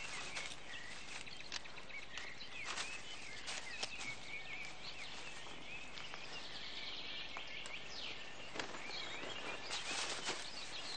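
Woodland ambience: small birds chirping and singing throughout, with scattered short clicks and rustles, a denser run of them near the end.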